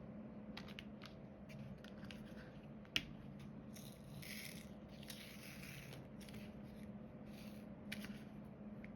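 Diamond painting work: small plastic clicks and taps of a drill pen and resin drills, with one sharp click about 3 s in and a stretch of rattling and scraping from about 4 to 6 s. A faint steady hum runs underneath.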